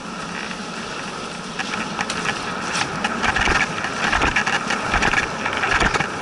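Dog sled running over snow: a steady scraping hiss with rapid rattles and knocks from the sled, louder from about two seconds in, with a few low thumps.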